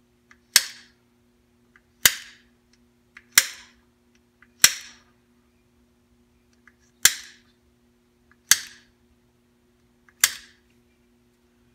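Seven sharp metal strikes, about one every second and a half, each with a short ring: a hammer tapping a punch to mark the check-ball positions on a 4L80E transmission part.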